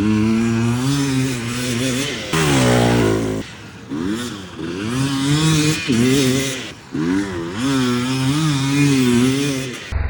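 KTM 300 two-stroke dirt bike engine being ridden, its revs rising and falling over and over as the throttle is worked, with one brief higher rev about a third of the way in.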